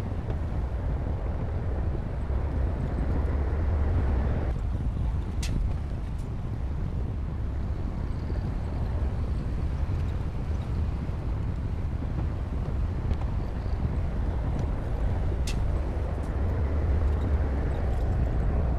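Komatsu D60P bulldozer's diesel engine running steadily with a deep low rumble, its higher-pitched noise easing about four and a half seconds in. A few sharp clicks stand out.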